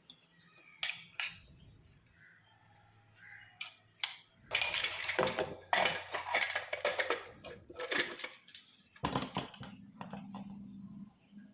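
Metal kitchen utensils and pots clinking and clattering: a few separate clicks, then a dense run of clatter in the middle and one more knock near the end.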